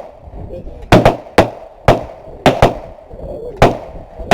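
Gunshots at a shooting range: about seven sharp, loud reports at an uneven pace, some close together and others a second apart, each with a short echo trailing after it.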